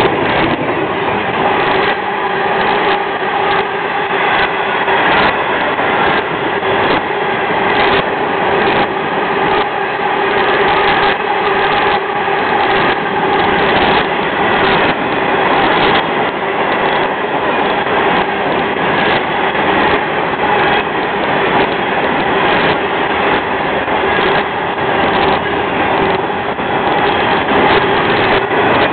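Long freight train of loaded cars rolling past, the wheels clicking over the rail joints in a steady, uneven rhythm, with a steady whine running underneath.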